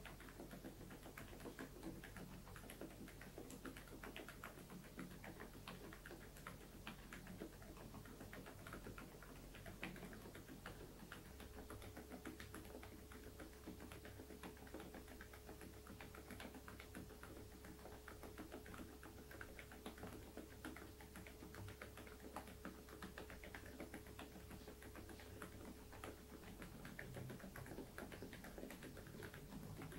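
Typing on an Interpixel IPK104 PRO full-size mechanical keyboard with Outemu Peach V3 silent switches: a quiet, continuous stream of dampened keystrokes.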